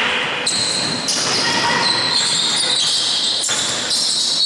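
Basketball game noise in a gym hall: a steady din of sneakers squeaking on the court with the ball bouncing and voices in the hall.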